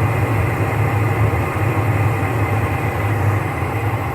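Gas furnace running with its burners freshly lit after a new igniter and control board: a steady low rumble and rush of burning gas, easing off slightly near the end.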